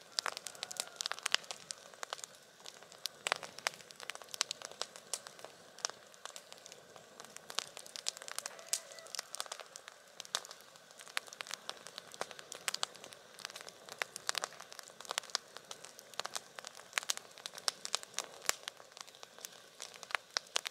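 Wood campfire crackling, with many irregular sharp snaps and pops over a steady hiss.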